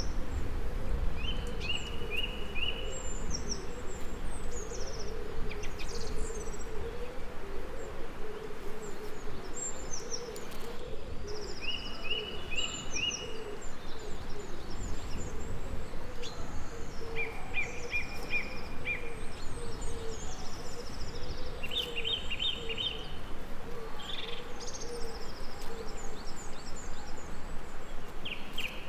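Several songbirds singing: a short trill of four or five quick notes comes back every few seconds among higher, thinner chirps, over a steady hiss and a wavering low hum. A low rumble fades away over the first several seconds.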